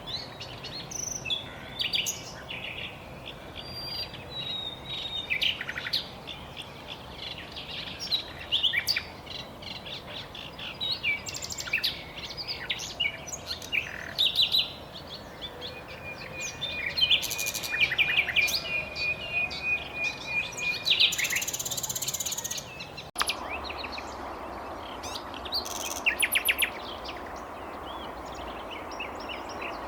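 Common nightingale singing varied phrases: rapid runs of repeated sharp notes, and a long steady whistle in the middle. The background hiss changes abruptly about two-thirds of the way through, with the song continuing afterwards.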